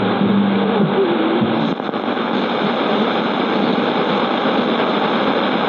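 Medium-wave AM radio receiver tuned off a station: a steady static hiss, with the faint music of a station dying away in the first second or two.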